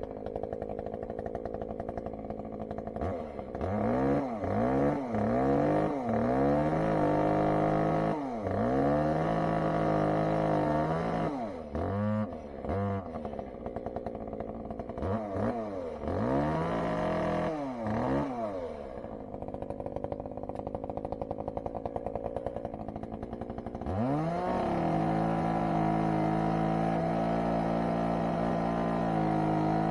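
Two-stroke chainsaw revved up and down repeatedly, with several quick throttle blips and stretches held at full revs, as it cuts into a fallen garden tree. It drops back to idle for a few seconds past the middle, then runs at full throttle again near the end.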